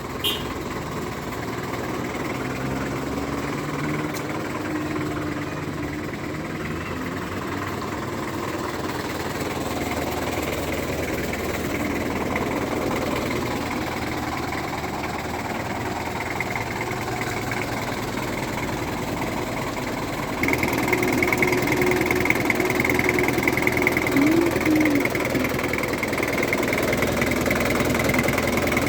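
Engine of an old 4x4 running while driving, its pitch rising and falling gently; it gets louder about two-thirds of the way through, with a steady high whine added.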